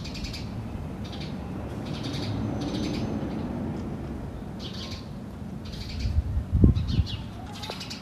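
A bird scolding a cat with short, harsh alarm calls, repeated about once a second. A louder low rumble with a few thumps comes about six to seven seconds in.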